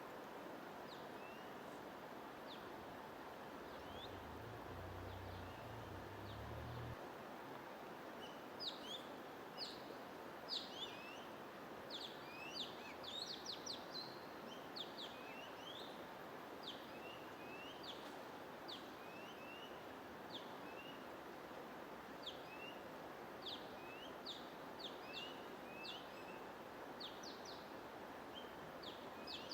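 Small songbirds chirping in short, quick notes over a steady hiss of white noise or rushing water. The chirps are sparse at first and come thick and fast from about eight seconds in.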